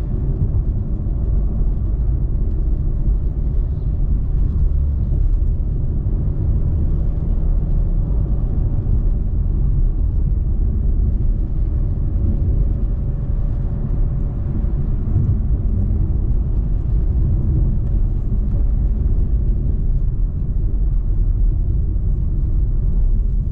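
Car driving at speed, heard from inside the cabin: a steady low rumble of road and engine noise, with a faint steady tone for a few seconds in the middle.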